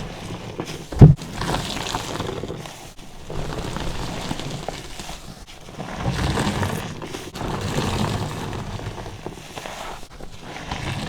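Car-wash sponge full of body soap being squeezed over and over, giving wet squelching and foam crackle in slow repeated swells. A sharp low thump comes about a second in.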